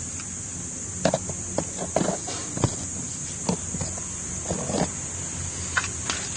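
Irregular knocks and clicks of hands and tools working on a motorbike while it is cleaned, over a steady high-pitched chorus of insects.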